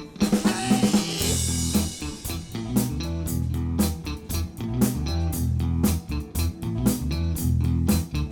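Live funk band playing an instrumental groove: electric guitar with the drum kit coming in right at the start and bass guitar joining about a second in, then a steady beat with sharp snare hits.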